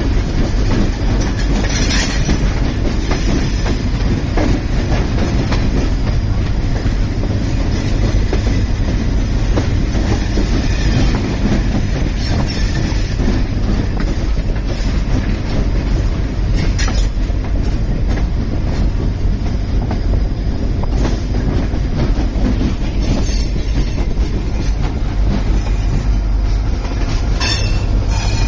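Shah Latif Express passenger train running along the track: a steady, loud rumble of wheels and carriages, with short metallic clanks and squeaks now and then.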